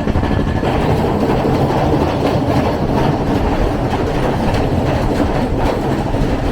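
Express passenger train running along the line: a steady heavy rumble with the clickety-clack of wheels passing over rail joints.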